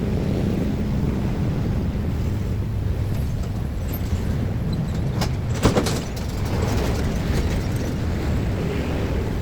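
Steady low rumble of a train passing over a railway level crossing, with a short cluster of sharp knocks a little past halfway.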